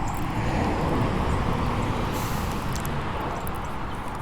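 A steady rumbling noise that swells and then eases, without speech.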